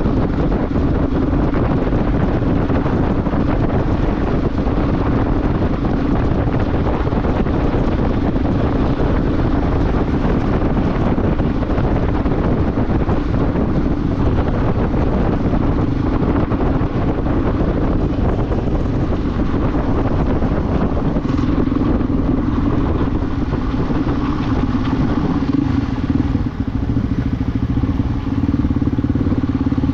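Motorcycle engine running steadily at a constant pitch while riding, under a dense rush of wind and road noise.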